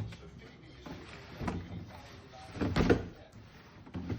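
Knocking and clattering of hard objects being handled: one knock about a second and a half in, then a louder burst of several quick clattering knocks near three seconds, and a smaller knock near the end.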